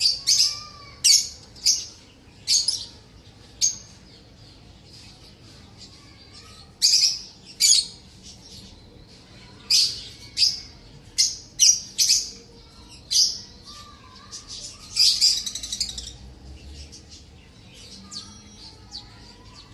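Lovebirds calling: short, sharp, high-pitched chirps in irregular clusters, about a dozen in all, with a longer run of rapid calls a little past the middle.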